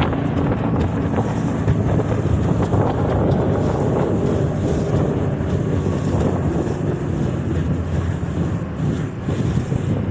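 Johnson outboard motor running steadily as the boat moves under way, with heavy wind noise on the microphone.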